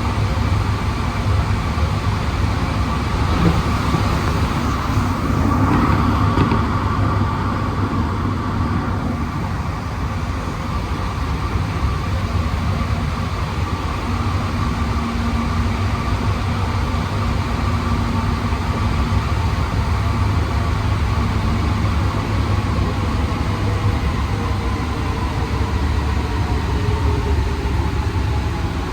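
Alstom NS-16 metro train heard from inside the car while running between stations: a steady rumble with a running whine from the traction motors. The whine's pitch sinks slowly in the last part as the train starts to slow for the next station.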